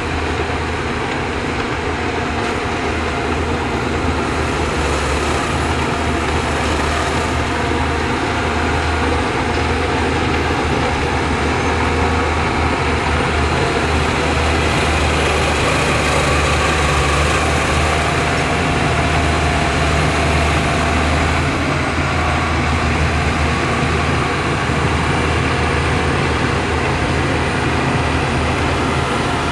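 Diesel engines of heavy earthmoving machinery running steadily, a continuous low drone with no breaks.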